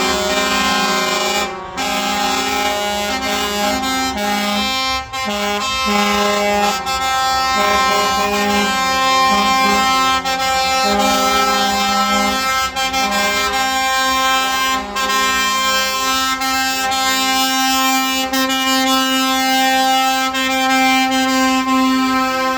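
A truck's multi-tone musical air horns sounding chords, the notes changing every second or so with two short breaks near the start, then one chord held for several seconds near the end.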